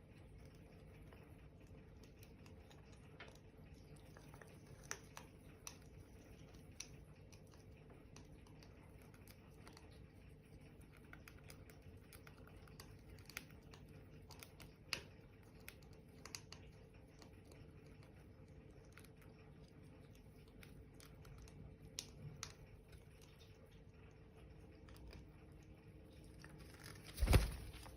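Wood fire crackling faintly, with scattered sharp pops at irregular intervals; one much louder thump near the end.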